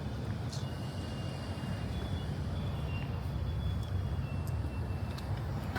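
Steady low rumble of a motor vehicle, with a few faint thin high tones over it.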